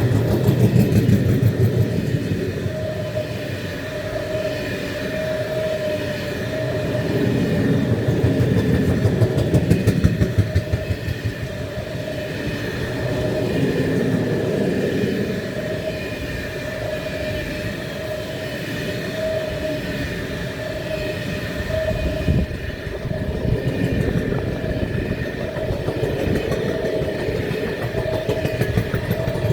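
A train running past on the rails: a continuous rumble of wheels with rapid clatter, and a steady wavering whine throughout. The loudness swells about a second in and again around ten seconds in.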